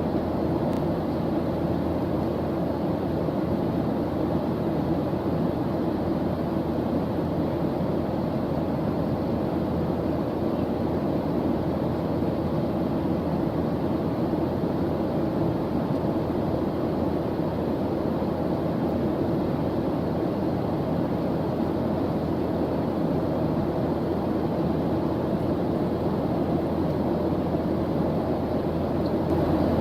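Steady white-noise background track: a constant, unbroken hiss weighted toward the low end.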